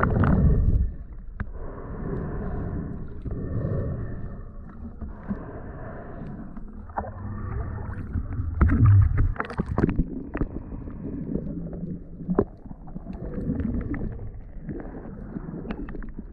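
Muffled water sloshing and splashing, uneven in loudness, with scattered sharp knocks and a louder surge about nine seconds in.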